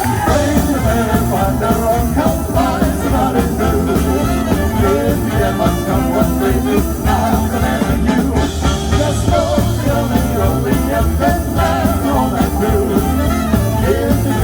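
Swing band playing a song, with singing over a steady bass and beat.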